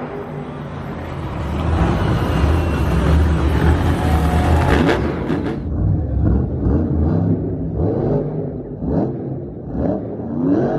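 Monster truck supercharged V8 engines running loud in an arena, with several quick rising revs in the second half.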